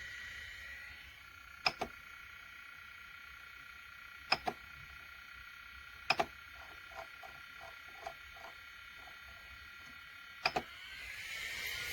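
A small 5015 radial blower fan running with a steady whine. The whine drops in pitch and level about a second in and rises back near the end, with four sharp double clicks along the way and a brief run of soft ticks in the middle.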